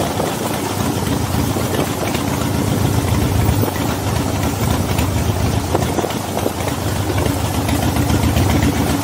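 V-twin motorcycle engine running steadily under way, heard from the bike itself, its exhaust pulses dense and low.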